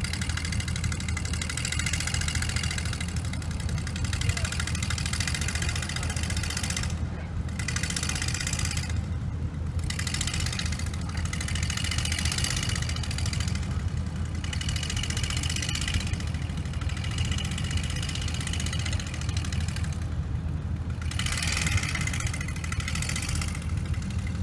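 Car heard from inside the cabin: a steady low engine and road drone, with a higher hiss that comes and goes in stretches of a few seconds.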